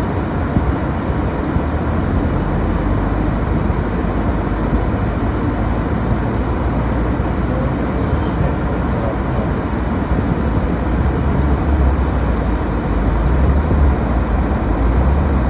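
Inside a moving car driving through deep snow: a steady low rumble of engine and tyres, growing a little louder near the end.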